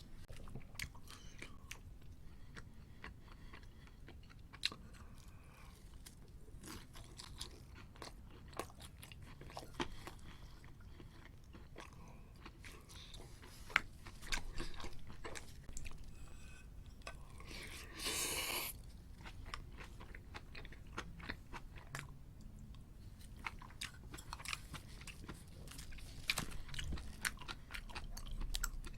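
Close-miked eating sounds: a person chewing and crunching crispy food, with many small crackles and wet mouth clicks and a louder, noisier stretch a little past halfway.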